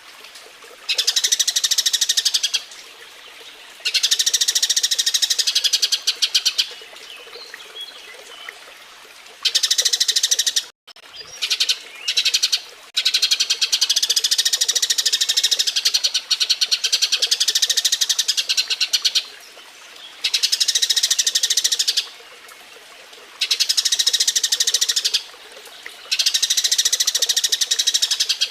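Eurasian tree sparrows chirping rapidly in excited bursts of a few seconds each with short pauses between: the chatter of sparrows mating. The sound cuts out for an instant about eleven seconds in.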